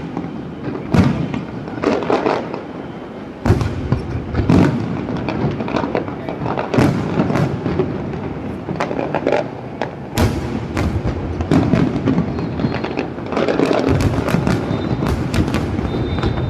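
Aerial fireworks going off one after another: heavy booms at about three and a half, ten and fourteen seconds, many sharper bangs between them, and a quick run of crackling reports near the end.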